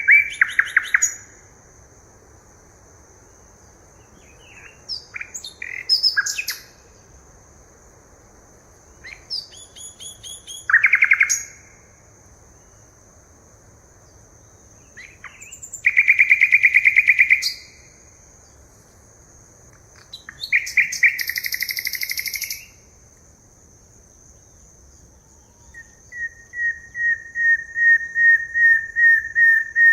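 Forest birds calling in separate bursts every few seconds: fast trills and a run of short quick repeated notes near the end. A steady high thin whine runs underneath.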